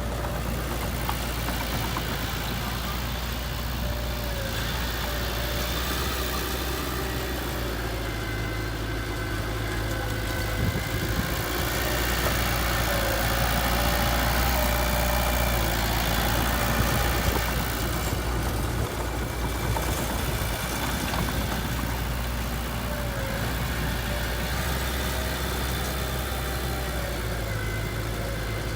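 Heavy diesel machinery engine running steadily at low revs, with a stretch of higher load in the middle of several seconds.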